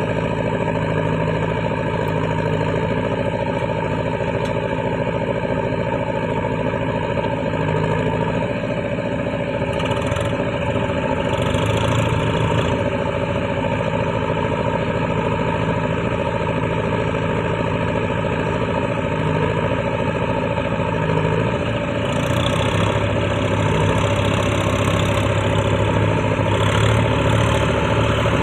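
Diesel engine of heavy farm or earthmoving machinery running steadily, its note shifting about ten seconds in and again past twenty seconds.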